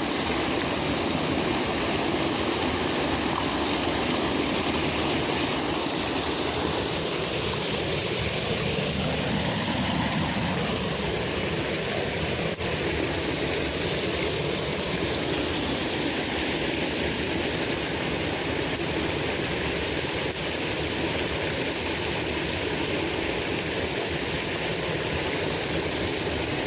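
Steady rushing of creek water, an even wash of noise.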